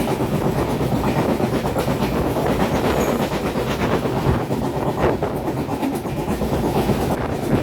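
Passenger express train's coaches rolling past across a river bridge: a steady heavy rumble with wheels clattering over the rail joints.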